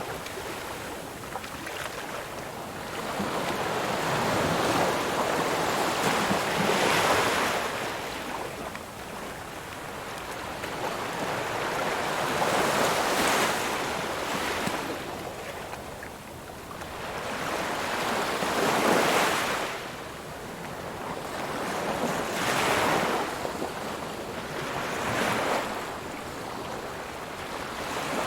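Ocean waves breaking on a shore, the surf rising and falling in swells every few seconds.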